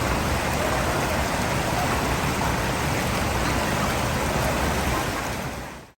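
Steady rush of falling water from a waterfall, fading out quickly near the end.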